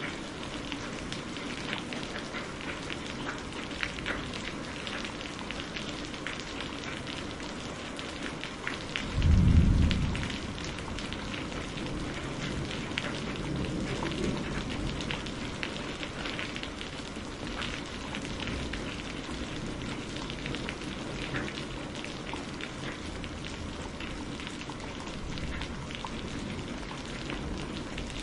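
Steady rain falling, with the patter of individual drops, and a short low clap of thunder about nine seconds in that fades within about a second, followed by a fainter rumble a few seconds later.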